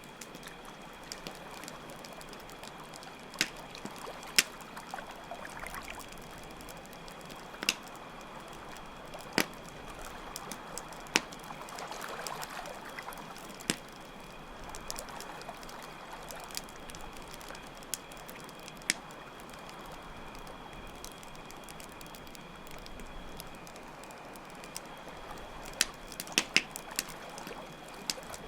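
Campfire crackling, with sharp pops every second or two, over a steady trickle of running water and a continuous high cricket trill that drops out briefly near the end.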